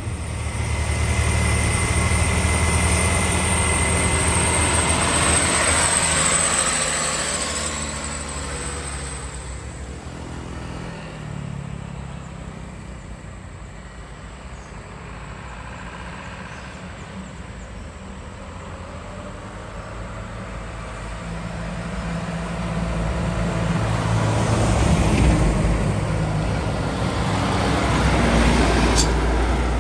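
Heavy trucks driving past one after another. The first runs loud with a low engine drone and a thin high whine, then fades away over about ten seconds. After a quieter stretch, another truck comes up and passes about two-thirds of the way in, and a third follows near the end.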